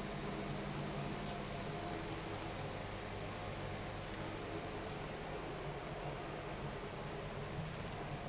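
Steady high-pitched insect chirring over a low steady hum; the high chirring drops away abruptly about a second before the end.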